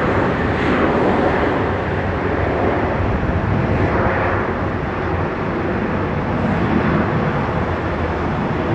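Jet aircraft engine noise at an airport: a steady, even rushing sound with no distinct events.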